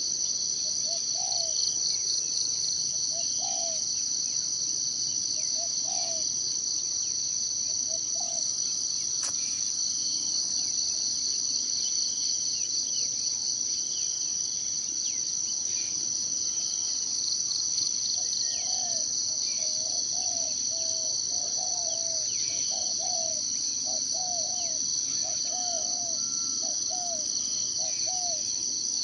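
Steady, high-pitched forest insect chorus with a fast pulsing trill. A low call repeats about every one and a half seconds, then runs in a quicker series in the second half, with a few faint higher bird chirps.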